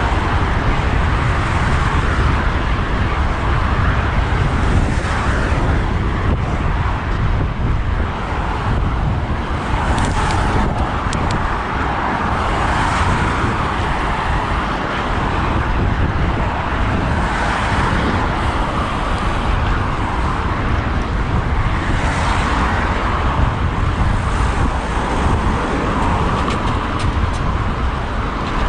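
Road traffic on a main road heard from a moving bicycle: cars passing one after another, their noise swelling and fading every few seconds over a constant low rumble.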